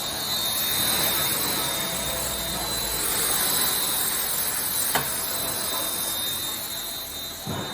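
Steady, loud rushing hiss of a machine, with a high steady whine running through it; a sharp click about five seconds in and a low thump near the end.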